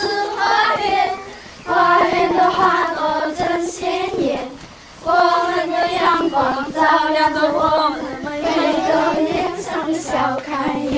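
A choir of young Dong girls singing a folk song together, in sung phrases broken by two short pauses.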